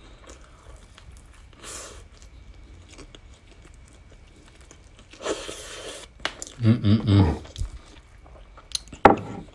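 Close-up chewing of a soft savory bread bun with the mouth closed, with small wet mouth clicks. About five seconds in comes a breathy exhale, then a few short low voice sounds.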